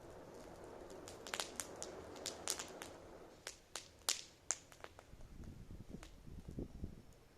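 Wood fire crackling, with irregular sharp pops and snaps, thickest in the first half, over a faint low rumble.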